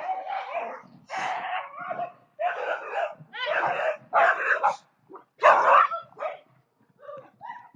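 An animal barking in a run of about ten harsh calls, each roughly half a second long, the loudest about five and a half seconds in.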